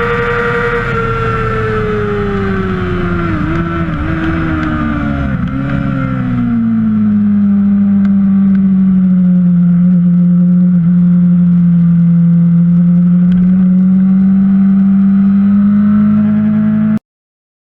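Kawasaki Ninja 600 (ZX-6R) race motorcycle engine. Its note drops as the bike slows, with a few short throttle blips on downshifts, then holds steady at lower revs. The sound cuts off abruptly near the end.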